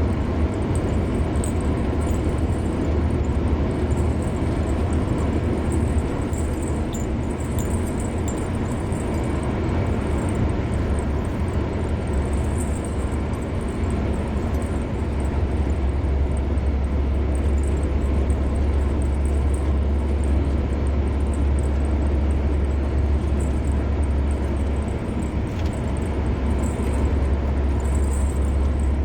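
Car driving at road speed: steady low rumble of tyres and engine. The deep rumble grows a little stronger about halfway through.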